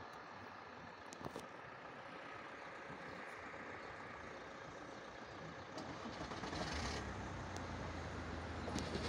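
Regional multiple-unit passenger train approaching along the track, its running sound growing louder from about two-thirds of the way in, with a steady low hum. A few faint clicks sound over it.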